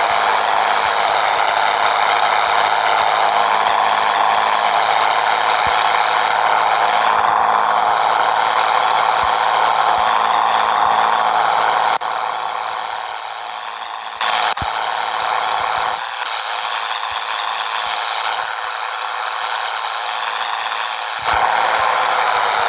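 Scania 113 truck on the move, its 11-litre straight-six running under a loud, even rush of road and wind noise with rattling. The sound drops and jumps abruptly several times.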